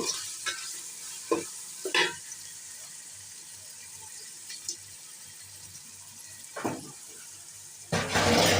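Onions and ginger-garlic paste frying in oil in a pot with a steady faint sizzle, and a spoon scraping the pot a few times as it is stirred. Near the end comes a louder burst of sizzling and scraping lasting under a second.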